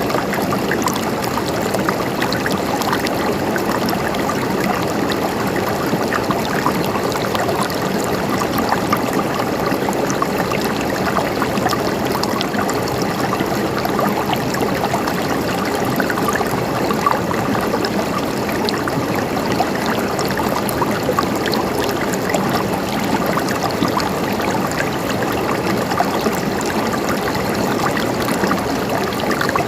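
A river's water running over stones in a steady, continuous rush, with small splashes and trickles through it.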